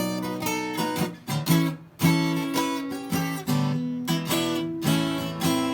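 Guitar playing an instrumental break in a blues song: a run of picked notes and chords with sharp attacks.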